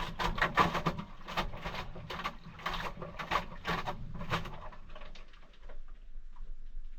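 Maytag washing machine running a cold wash cycle: a steady low motor hum under a run of uneven swishes and knocks from the wet towels and drum, fading to fainter ones after about four and a half seconds.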